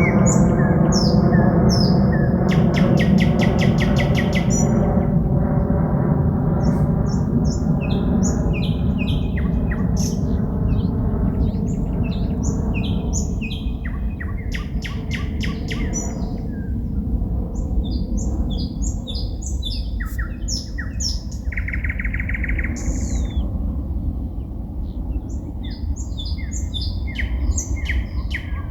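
Forest birds singing at night: a varied song of short whistled phrases, rapid runs of repeated notes and trills. A low drone with several steady tones sounds beneath it and fades out over the first half.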